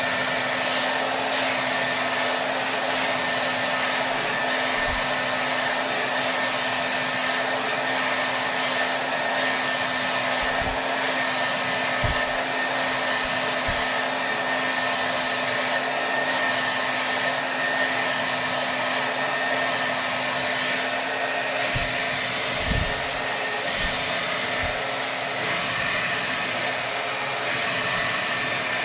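Hair dryer blowing steadily on its highest setting: a constant rush of air with a steady motor hum and whine. A few faint low thumps break in here and there.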